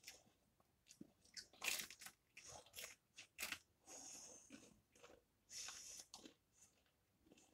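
Someone biting into and chewing a breaded chicken nugget close to the microphone: irregular crisp crunches of the coating, with short pauses between them.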